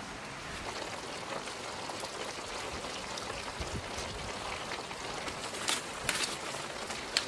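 Mixed vegetables sizzling in a wok over a wood fire: a steady crackly hiss with scattered small pops, and a few sharper, louder pops in the last couple of seconds.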